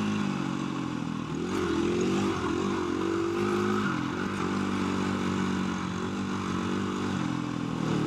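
KTM 350 EXC-F single-cylinder four-stroke dirt bike engine running on the throttle, its revs rising and falling quickly between about one and a half and four seconds in as the bike rides over whoops, then holding steadier.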